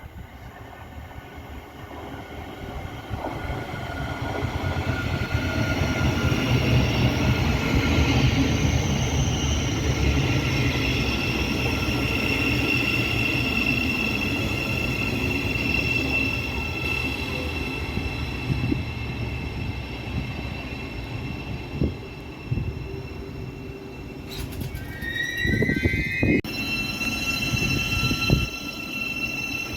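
Passenger train running through a station, its rumble building over the first several seconds and then holding steady, with a high-pitched whine from the wheels on the rails over it. A short rising whine comes near the end, along with a few sharp knocks.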